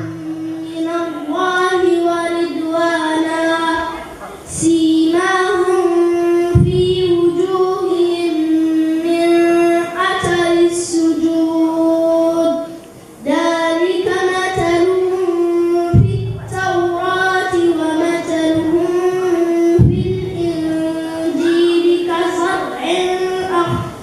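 A child reciting the Quran in melodic tajwid style, holding long steady notes with ornamented turns, in several phrases separated by short breaths.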